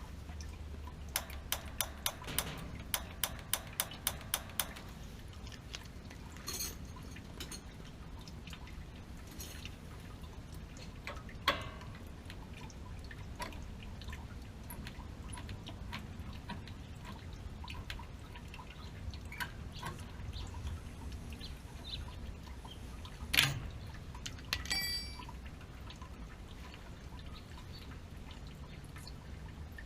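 Gas water heater pilot igniter clicked rapidly, about four sharp clicks a second for a few seconds, in an attempt to light the pilot on a flooded heater with a bad igniter. Scattered small ticks follow, then a single louder click with a brief ringing tone near the end.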